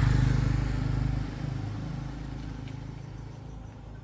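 A motor vehicle's engine passing close by, loudest at the start, then dropping away after about a second and fading.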